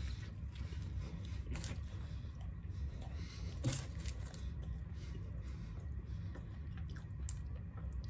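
A man biting into and chewing a mouthful of double cheeseburger with his mouth closed: faint chewing and mouth clicks over a low steady hum.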